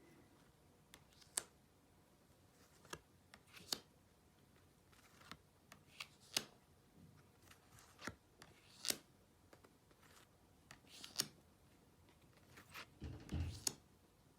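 Glossy oracle-deck cards being handled: scattered crisp clicks and snaps of card edges, a few seconds apart and irregular, with a short low rustle or thump near the end.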